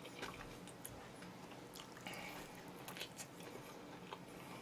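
Faint sounds of eating chicken: soft chewing with scattered small clicks.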